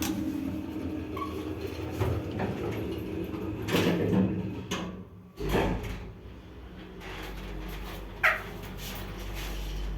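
ShchLZ passenger elevator: sliding doors and mechanism clunking in the first half, then about halfway a loud start and a steady low hum from the lift drive, very strong. A short squeak near the end.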